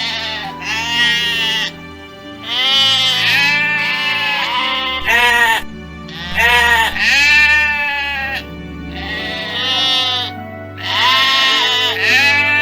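Repeated bleating, about eight or nine wavering calls of roughly a second each, over steady background music.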